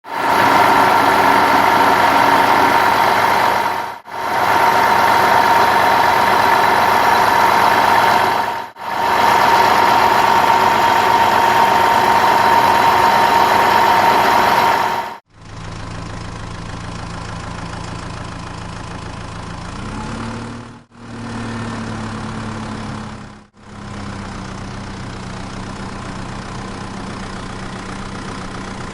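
Vehicle engine running, cut into several segments with brief drop-outs: loud with a steady high hum for the first fifteen seconds, then a quieter, lower idle whose pitch rises briefly about twenty seconds in.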